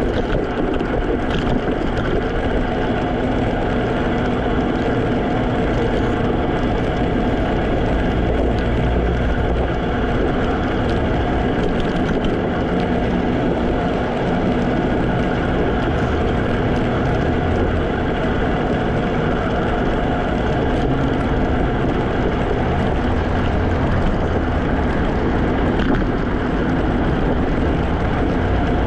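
Steady rolling and wind noise from a moving Segway Ninebot electric scooter, a constant rumble and hiss with a faint steady hum over it.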